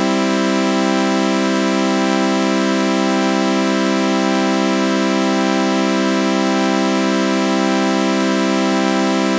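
Synthesized sawtooth-wave chord held as a steady, unchanging drone with a flanger effect, giving it a slow sweeping shimmer. It sounds organ-like.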